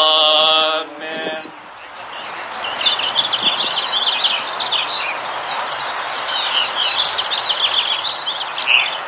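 Small birds chirping in quick, repeated chirps over a steady outdoor background hiss.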